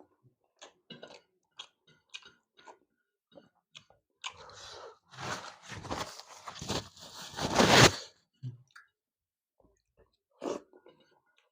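Close-miked eating sounds from a person eating a meal of fried fish and rice: scattered small mouth clicks and chewing, with a denser spell of loud crunching and chewing in the middle.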